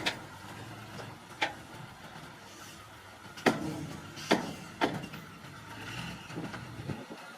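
Small bulldozer's diesel engine running steadily, with five sharp metallic knocks, the loudest two about three and a half and four and a quarter seconds in.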